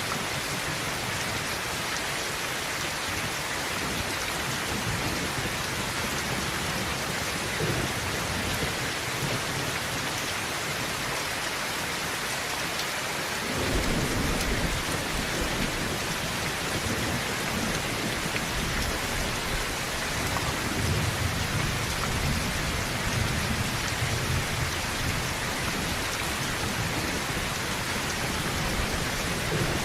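Heavy rain falling steadily on a tin roof, a dense even hiss, with low rolling thunder rumbling in about halfway through and again later.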